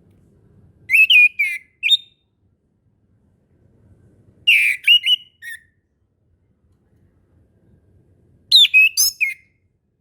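Orange-headed thrush singing: three short phrases of quick, sliding whistled notes, each under a second long and about three and a half seconds apart.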